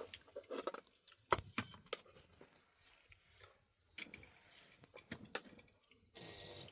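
A few scattered sharp clicks and knocks, the loudest about 1.3 s and 4 s in, over faint background noise.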